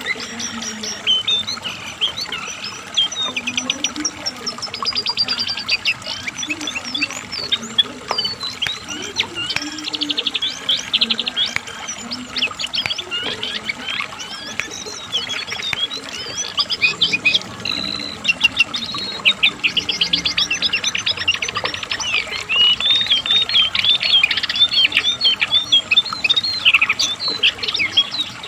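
Cingcoang (jongkangan coklat), a shortwing, singing a long, fast, varied song of high chirps and rapid trills, with only brief pauses.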